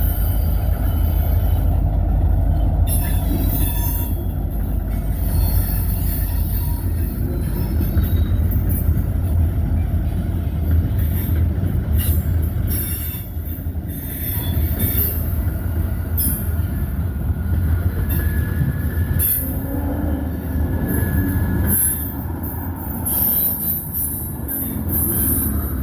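Freight train passing, its cars rolling by with a steady low rumble and repeated high-pitched wheel squeal.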